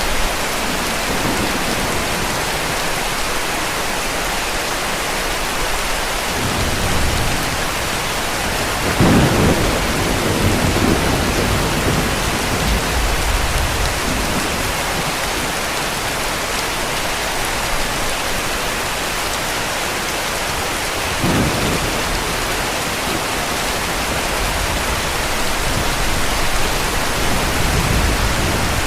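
Heavy rain falling steadily, with distant thunder rumbling low beneath it: a strong rumble about nine seconds in and a shorter one about twenty-one seconds in.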